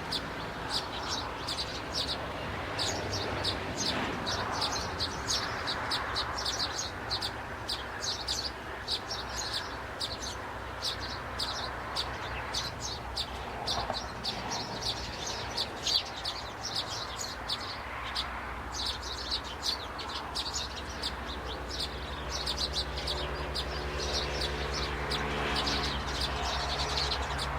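Birds chirping: quick, short, high-pitched notes repeated continually. A low steady hum comes in about two-thirds of the way through.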